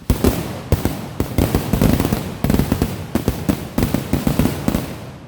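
Consumer fireworks going off in a rapid, dense barrage of sharp bangs and crackling pops that carries on without a break until it stops just before the end.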